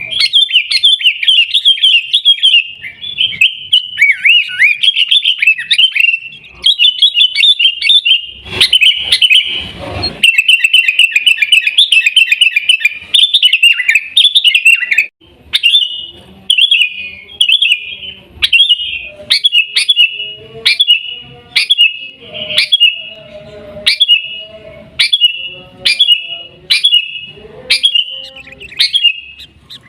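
Sooty-headed bulbul (kutilang) singing loud, rapid chattering phrases. About halfway through it changes to short calls repeated a little faster than once a second.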